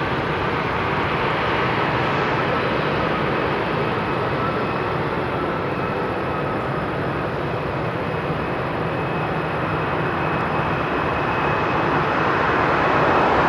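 Turbofan engines of a Lufthansa Embraer E190 jet running: a steady jet noise with a faint high whine, growing louder near the end.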